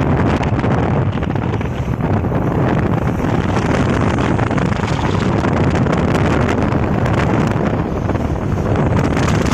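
Wind rushing over the microphone on a moving motorbike, a steady loud rush of wind and road noise.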